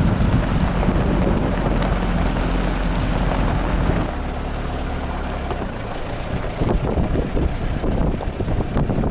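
An engine running steadily, its low hum shifting twice partway through, with wind rumbling on the microphone.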